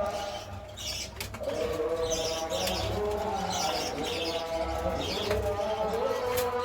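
Pigeons cooing in a loft, with small birds chirping over them in short, repeated bursts.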